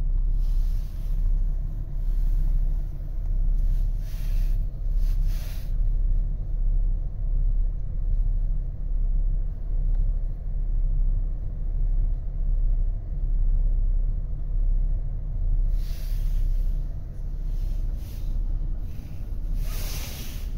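Ford Kuga's engine idling in Park, heard from inside the cabin as a low steady rumble, with a few brief rustles and clicks from hands at the controls.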